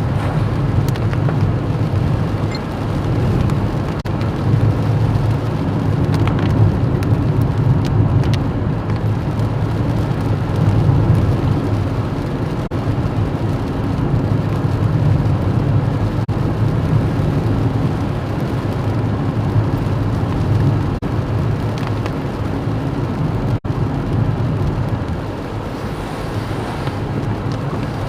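Car driving steadily, its engine and road noise heard from inside the cabin.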